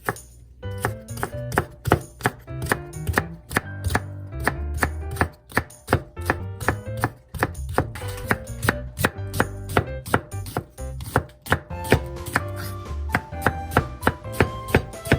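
Kitchen knife chopping on a cutting board: a long, steady run of quick strokes, about three to four a second.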